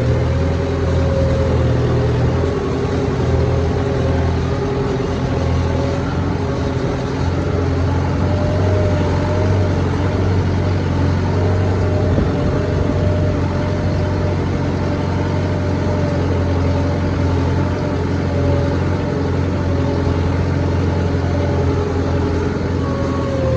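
Tractor engine running steadily, a constant low drone with a slightly wavering higher tone above it.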